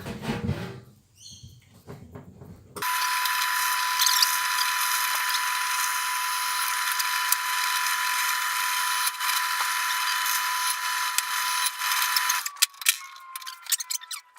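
Electric drill running steadily while boring holes in a rebar steel handle. It starts about three seconds in, cuts out near the end, and winds down with a falling whine.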